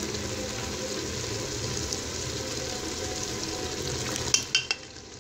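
Mutton masala sizzling and frying in an aluminium pressure-cooker pot, stirred with a wooden spoon. About four seconds in, cooking oil is poured in with a few sharp knocks, and the sizzle dips briefly.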